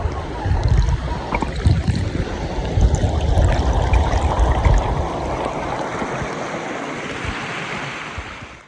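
River water rushing and splashing close to the microphone, with low rumbling knocks on the microphone for most of it. Near the end the rumble drops away, leaving a steadier hiss of running water that cuts off suddenly.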